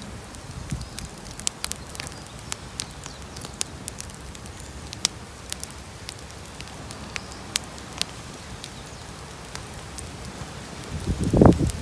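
Wood bonfire crackling: irregular sharp pops and snaps over a steady low hiss. Near the end, a louder low-pitched thudding cluster.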